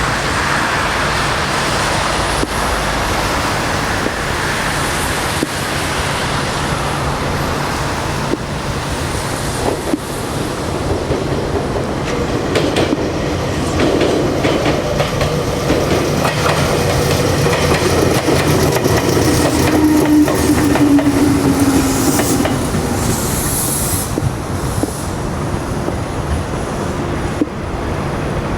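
Meitetsu 2000 series 'Blue μSKY' electric multiple unit running past, its wheels clacking over the rail joints.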